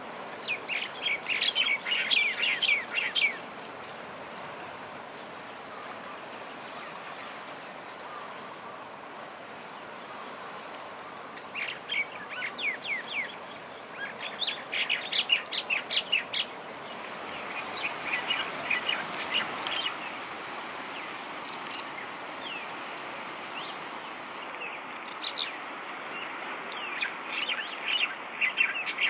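Small birds chirping in several bursts of rapid, repeated high notes over a steady wash of surf.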